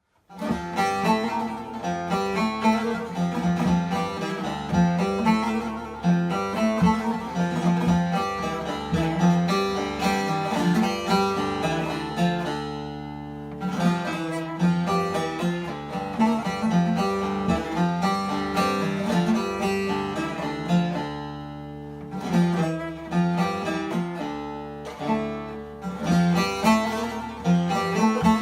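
Instrumental folk music of fast plucked notes on a bağlama, the Turkish long-necked lute, with a steady strong low note underneath. The playing briefly thins out twice.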